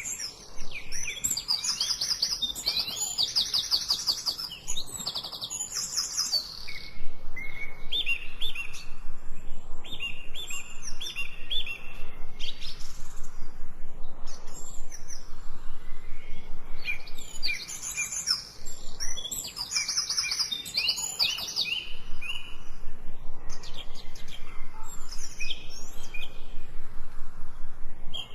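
Songbirds singing, with fast high trills and repeated short chirps.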